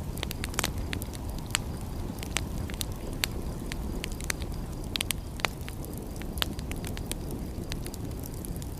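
Wood fire crackling, with irregular sharp pops and snaps, several close together around the middle, over a steady low rumble.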